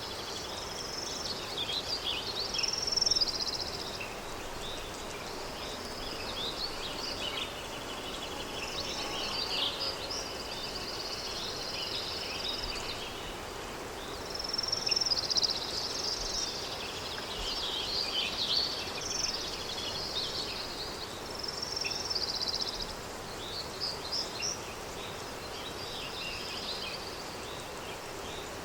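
Countryside ambience: songbirds chirping and trilling almost without pause over a steady background hiss of wind, with the busiest bursts of song about 3 seconds in and again halfway through.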